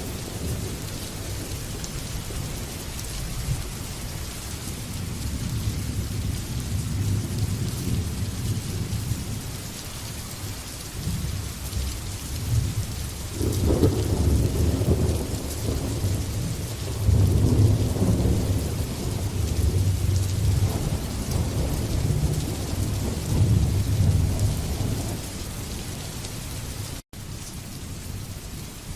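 Steady rain pouring down with long rolls of thunder rumbling underneath. The thunder swells about halfway through, with its strongest rolls around the middle, then dies back to rain alone near the end, where the sound cuts out for a split second.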